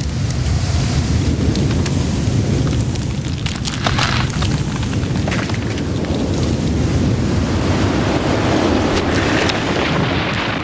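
A violent storm of high wind and heavy rain: a steady, loud roar with a deep rumble and scattered sharp cracks. The sound drops away suddenly at the end.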